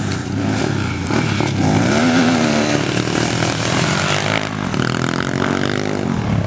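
Motocross bike engine revving as it rides, its pitch climbing and dropping several times with throttle and gear changes.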